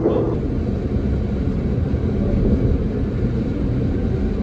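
The West Express Ginga, a converted 117-series electric train, running along the line, heard from inside the carriage as a steady low rumble of wheels on the track.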